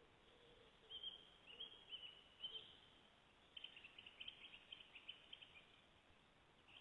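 Faint bird calls: a few short high chirps, then a quick run of rapid short notes about halfway through.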